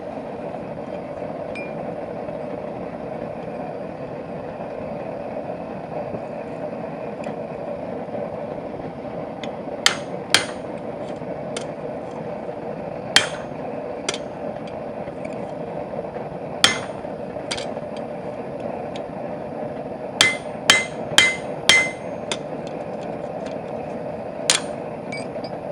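Blacksmith's hammer striking steel on the anvil, about eleven ringing blows spaced irregularly, with a quick run of four about two-thirds through, punching square nail holes in the hinge bar stock. A steady background noise runs underneath.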